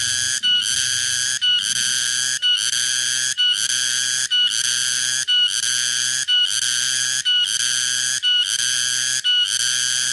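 Cicada (tonggeret) calling: a loud, shrill, continuous buzz broken by brief pauses about once a second, each pause starting with a short clear tone.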